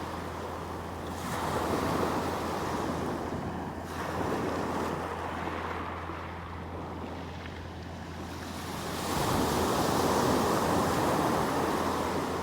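Sea waves breaking on the shore, the surf swelling and washing back three times, about a second, four seconds and nine seconds in, over a steady low rumble.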